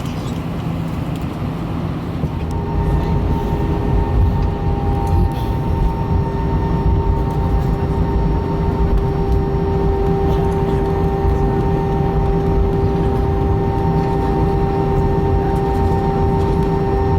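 Airbus A318 airliner cabin noise: a steady low rumble, joined about two and a half seconds in by a steady whine of several pitches that runs on unchanged.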